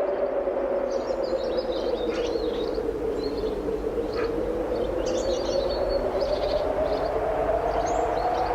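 Strong wind blowing steadily, its low hum slowly sinking and rising in pitch, while small birds chirp and twitter in short high phrases from about a second in.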